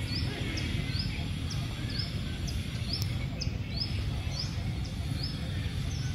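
A small bird chirping over and over, short high rising notes about twice a second, over a steady low rumble of background noise.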